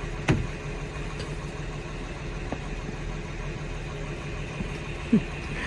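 A vehicle engine idling with a steady low hum, and one sharp knock about a third of a second in.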